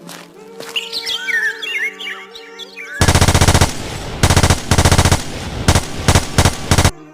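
Birds chirping over soft background music. About three seconds in, loud, rapid bursts of automatic gunfire break in and continue in several runs until near the end.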